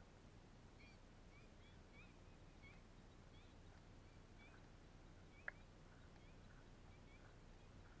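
Faint bird calls: short, curving chirps repeated about twice a second, with a single sharp click about five and a half seconds in.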